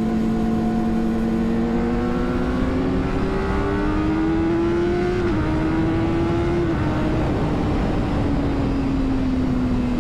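Honda CBR600RR's inline-four engine pulling gently at low revs, its pitch climbing slowly for about five seconds, then easing off and falling as the bike slows. Steady wind and road noise run underneath.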